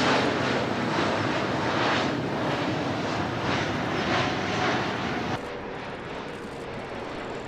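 Jet noise from a C919 airliner's CFM LEAP-1C turbofan engines as it flies past: a loud, dense roar that swells and fades in waves. A little past five seconds in, it cuts suddenly to a quieter, steadier roar.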